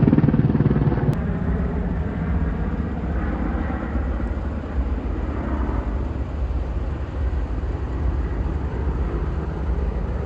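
Steady low engine rumble, with a hum that stops with a small click about a second in.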